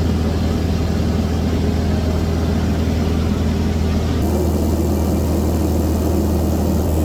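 Piper PA28 single-engine light aircraft's piston engine and propeller running steadily, a constant low drone heard from inside the cabin. The hiss above it changes abruptly about four seconds in.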